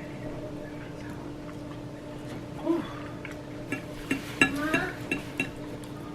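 A few sharp clinks and knocks of cooking utensils against pots and pans, clustered between about four and five and a half seconds in, over a steady hum.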